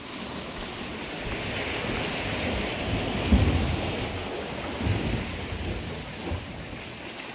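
Ocean surf washing on a rocky shore, swelling and easing, with wind on the microphone and a few short low thumps, the loudest a little past three seconds in.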